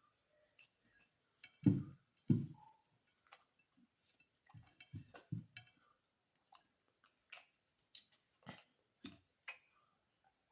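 A person chewing and eating beef biryani close to the microphone: wet mouth smacks and small clicks at irregular intervals, with a few heavier chews about two seconds in and again around five seconds.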